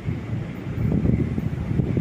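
A train rolling along the tracks: a low rumble that grows louder about a second in.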